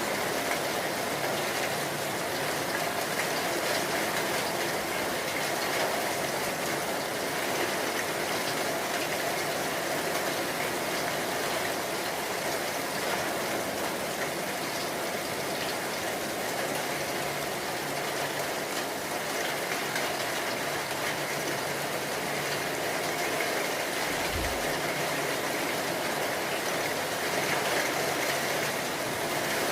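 Steady rain falling, an even hiss with no breaks, with a brief low thump near the end.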